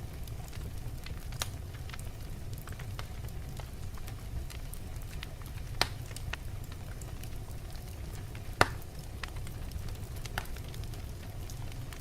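Fire burning in a fireplace: a steady low rumble of flames with many small crackles, and two louder pops about six and eight and a half seconds in.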